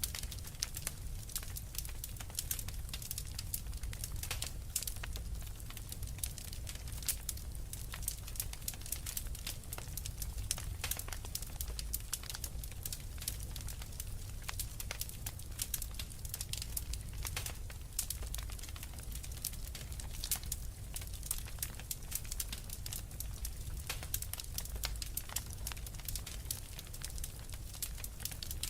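Fire in a fireplace crackling: many small irregular pops and snaps over a steady low rumble.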